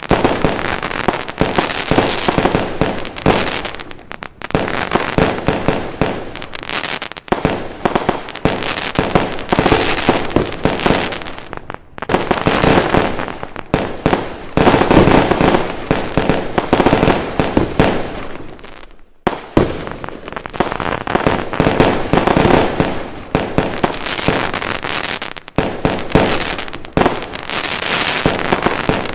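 Fireworks display: a dense, continuous barrage of bangs, booms and crackling firecrackers, with short lulls before it starts up again.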